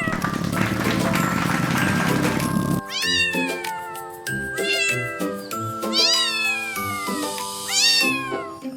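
Domestic cat meowing four times, each call starting high and sliding down in pitch, over light background music. A steady rushing noise fills the first three seconds and stops abruptly.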